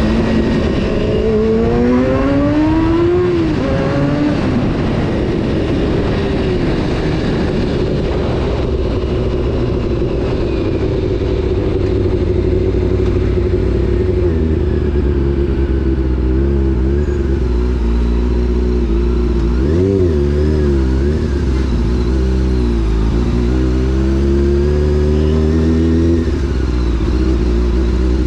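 Honda CBR600 F4's inline-four engine under way, its revs climbing over the first three seconds and dropping away around four seconds in. It then runs fairly steadily with small rises and falls in pitch, and a quick rev up and back down about two-thirds of the way through.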